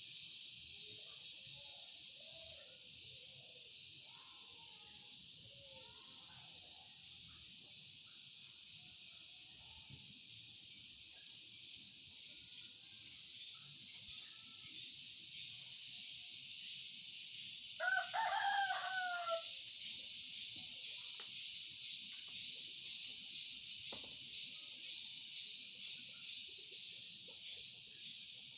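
A rooster crows once, a call of about a second and a half, about two-thirds of the way through, over a steady high hiss and a few faint chirps.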